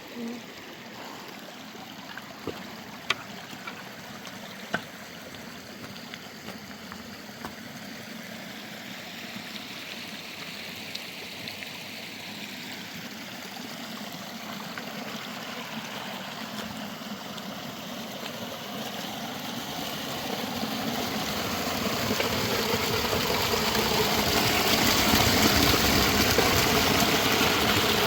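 Rushing water and heavy rain, a steady wash that grows louder from about twenty seconds in, with a couple of sharp knocks a few seconds in.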